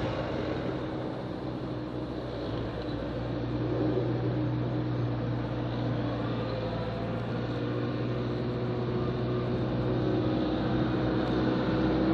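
Engine of a snow-plowing vehicle running steadily with a low hum, its pitch shifting slightly a few times as engine speed changes and growing a little louder toward the end.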